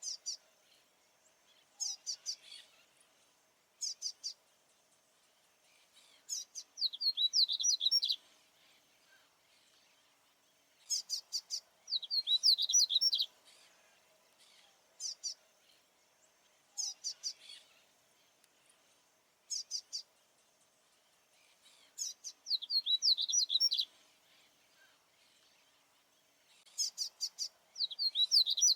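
A papa-capim baianinho seedeater singing repeatedly. Each burst opens with a few short, high, sharp notes and often runs into a quick warbled run about a second and a half long, repeated every few seconds. A faint steady hum sits underneath.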